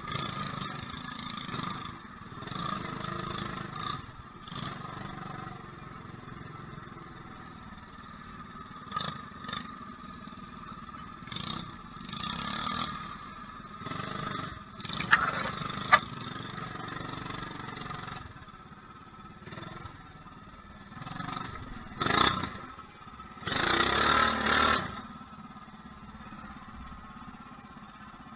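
Small single-cylinder mini bike engine running steadily while riding a dirt trail, with scraping and clattering over it. There are two sharp clicks about halfway through and two louder noisy surges near the end.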